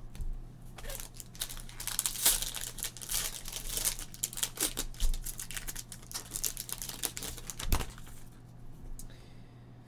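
Crinkling and rustling of trading-card packaging and cards being handled, a dense run of small crackles, with a single thud near the end.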